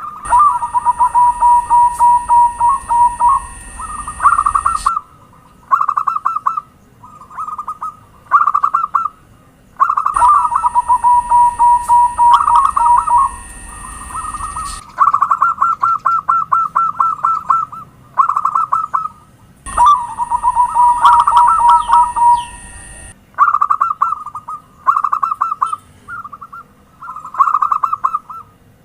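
Zebra doves (perkutut) cooing: loud, rapid runs of short staccato notes in repeated phrases, the calls overlapping at times. A steady high hiss comes and goes with some of the phrases.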